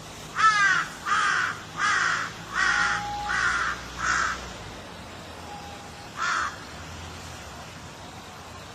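Crow cawing: a quick run of six caws over about four seconds, then a single caw about two seconds later, over a steady background hiss.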